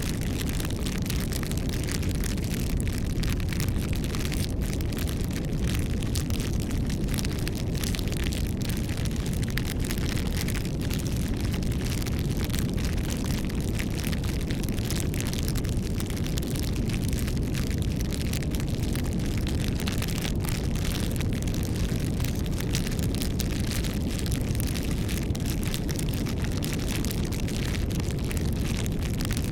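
Wood campfire burning: a steady low rumble of flames with frequent irregular crackles and pops.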